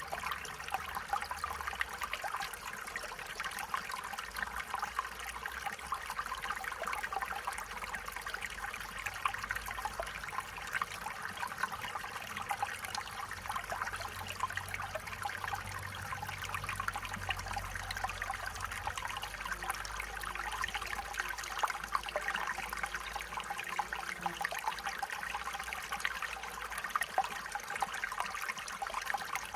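A small stream flowing and trickling steadily over stones, a continuous babble of water.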